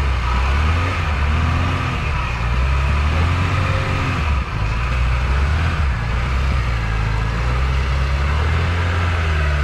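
Off-road 4x4 engine running, its pitch rising and falling a few times as it is revved.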